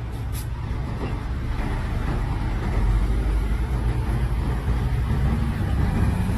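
Heavy diesel earthmoving machinery running with a steady low rumble, its level rising slightly midway.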